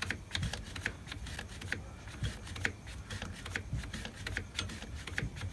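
A run of light, irregular clicks and ticks, a few a second, from hand work on the brake.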